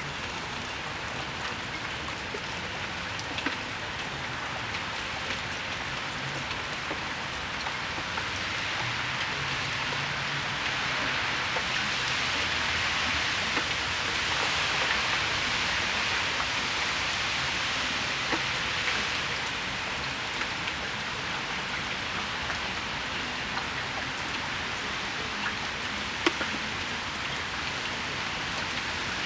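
Steady rain shower, its hiss dotted with the ticks of single drops hitting nearby surfaces. The hiss swells for several seconds in the middle, then eases back.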